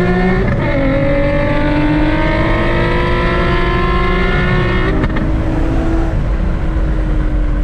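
Nissan VQ V6 engine under hard acceleration, heard from inside the car: the revs climb, drop with an upshift about half a second in, then climb steadily through the next gear. About five seconds in the driver lifts off and the engine settles to a lower, steady tone.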